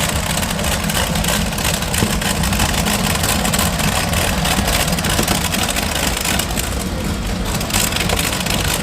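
Modified pulling tractor's two Continental V12 engines running loud and steady.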